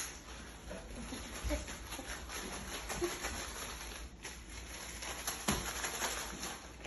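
Handling noise as chicken drumsticks are worked in shake-and-bake coating mix: soft rustling and light patting, with a few short, faint squeaky blips.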